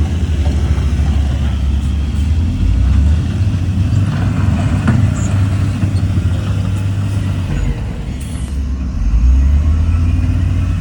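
Heavy diesel engine of earthmoving machinery running under load, a low drone that swells and eases several times as the load changes.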